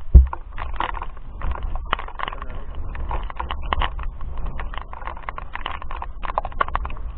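Irregular clicks and knocks over a low rumble, with one loud thump just after the start.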